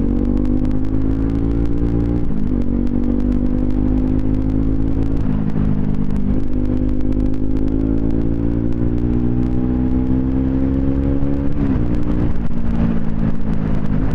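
Bajaj Pulsar NS200's single-cylinder engine running through an aftermarket twin-pipe exhaust while riding, its pitch climbing slowly and dropping sharply at each gear change: about two, five, six and eleven seconds in, and again near the end.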